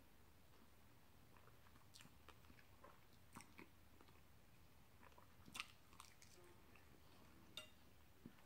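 Faint, close chewing of a soft mouthful of greens and candied yams, with a few scattered soft mouth clicks and lip smacks; the sharpest comes about five and a half seconds in.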